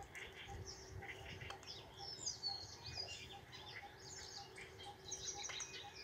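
Birds chirping faintly, many short high calls and quick downward-sweeping notes overlapping, with a rapid even trill near the end.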